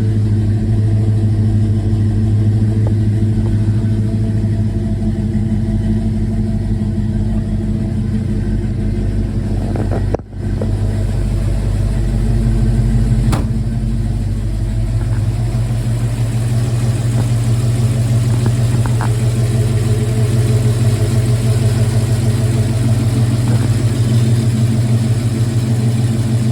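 1964.5 Ford Mustang engine running at a steady idle, warming up after a cold start, with a momentary drop in level about ten seconds in.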